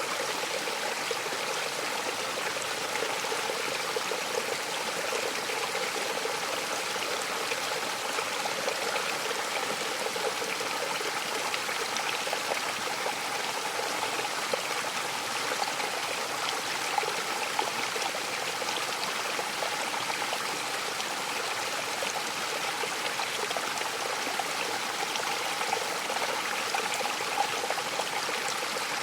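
Waterfall running steadily: a continuous rush of falling and splashing water with no breaks.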